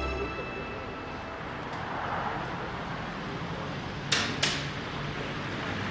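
Steady background hiss, then two sharp clicks in quick succession about four seconds in.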